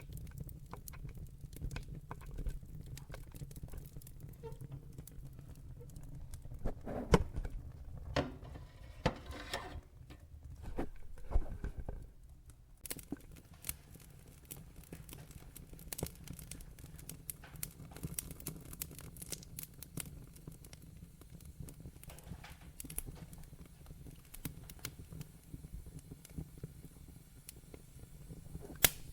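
Wood fire burning in a fireplace, logs crackling with a steady low rumble of the flames under many small snaps. Louder pops stand out around seven, eight and eleven seconds in, and again near the end.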